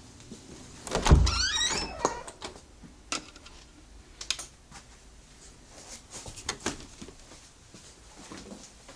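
A heavy thump with a short wavering squeal about a second in, then scattered light knocks and clicks.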